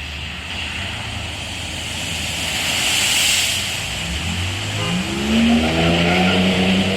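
Road traffic on a rain-flooded road: a vehicle passes with a hissing swell of tyre spray that peaks about three seconds in. Then an engine accelerates, its pitch rising and then holding steady.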